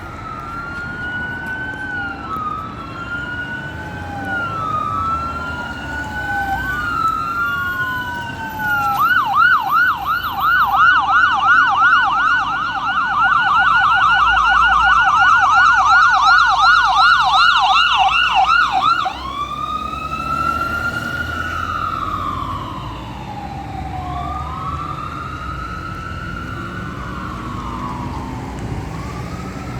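Fire engine's electronic siren: a wail sweeping up and down about every two seconds switches about nine seconds in to a loud, fast yelp of about four cycles a second, then drops back to a slower wail about ten seconds later. The truck's engine rumbles underneath.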